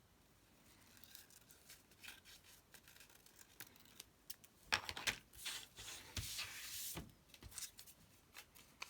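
Scissors cutting paper, with the paper rustling. There are faint snips at first, then a few sharp cuts and a longer rustle just past the middle.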